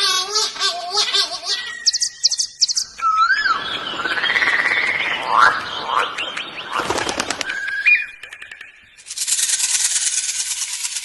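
Several different bird calls in quick succession, changing every few seconds: warbling notes, a short steady whistle, gliding calls, then a dense rapid rattle near the end.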